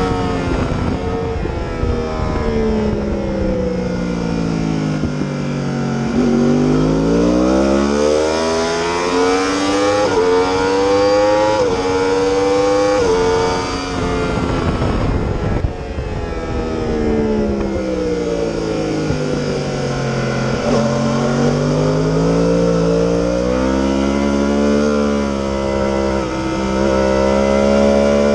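Yamaha R1 sport bike's inline-four engine running hard around a race track. Its pitch sinks twice as the bike slows for corners and climbs again twice as it accelerates out of them.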